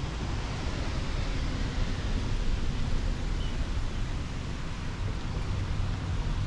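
Wind buffeting the microphone with a fluttering low rumble over a steady hiss.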